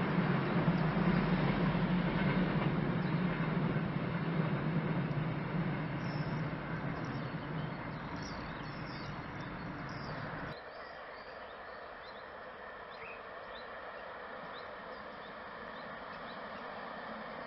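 Express passenger train running past across the river: a steady rumble with a low hum that slowly fades as it draws away, with birds chirping. About ten seconds in the sound cuts abruptly to a quieter, distant hum.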